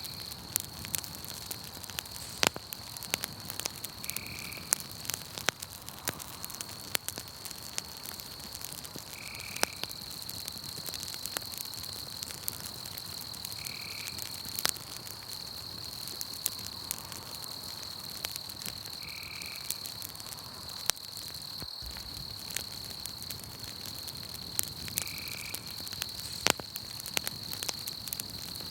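Campfire crackling with sharp, irregular pops, over a steady high-pitched insect trill. A short high note repeats about every five seconds.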